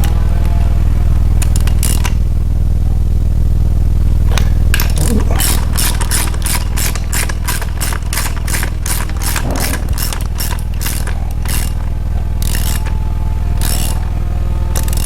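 A ratchet wrench clicking in a run of sharp metallic clicks, about three a second, through the middle of the stretch, with a few more near the end, while the rocker arms of a small-block Chevy 350 V8 are being adjusted. A steady low machine drone runs underneath throughout.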